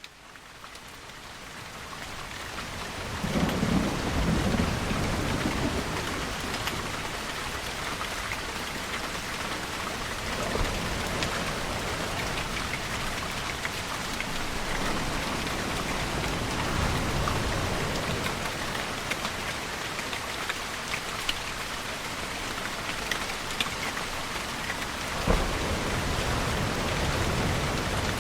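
Steady rain falling, fading in over the first few seconds, with low rolls of distant thunder rumbling several times and one sharper thunder crack near the end.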